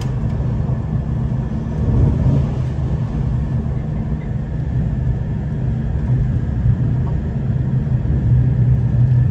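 Steady low rumble of a V/Line diesel passenger train running on the track, heard from inside the carriage, with a faint steady whine above it.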